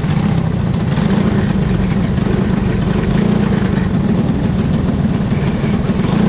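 Speedway motorcycle engine running steadily at an even speed, without revving.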